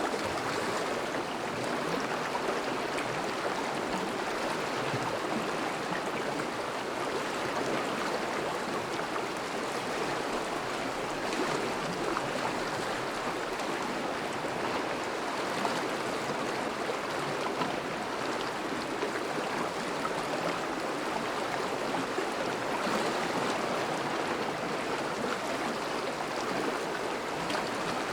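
River water flowing steadily over a shallow bed, a continuous even rushing and babbling. The river is thawing, with melting ice along its course.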